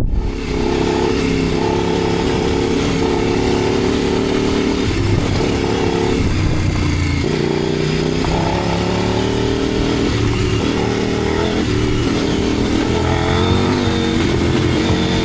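Motorcycle engine running under way, its pitch stepping and sliding up and down several times with throttle and gear changes.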